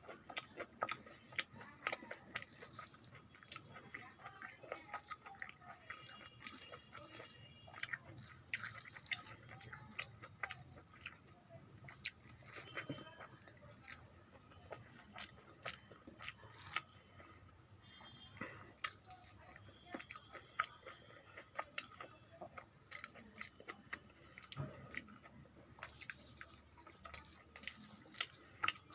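Close-miked chewing and eating: a steady run of many small, irregular mouth clicks and smacks as someone eats rice with curry and fried vegetables.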